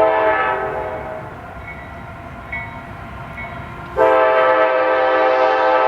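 Multi-chime air horn on the lead Canadian Pacific GE AC4400CW locomotive sounding two long blasts, the first fading after about a second and a half, the second starting about four seconds in, over the low rumble of the approaching freight train.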